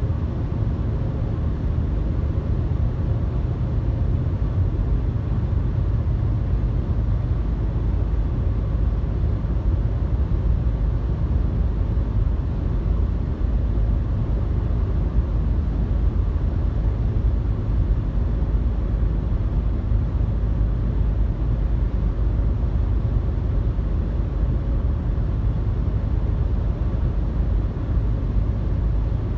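Steady low road and engine rumble heard from inside a car cruising at highway speed, with tyre and wind noise.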